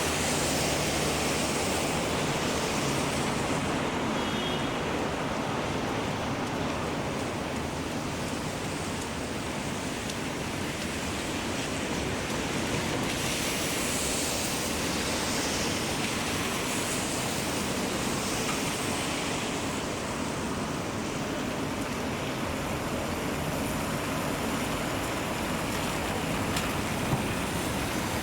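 Steady rushing hiss of heavy rain, with a brief faint high tone about four seconds in.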